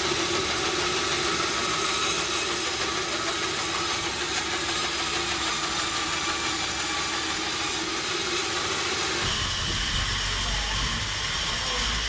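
Engine-driven sawmill machinery running steadily. About nine seconds in the sound shifts to a deeper rumble with a steady high tone over it.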